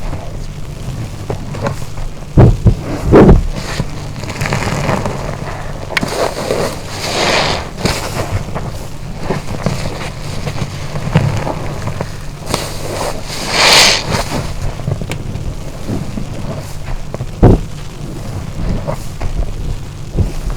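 Wet car wash sponge being squeezed and rinsed: irregular squelching and water running and dripping, with a few heavy low thumps, two near the start and one late on.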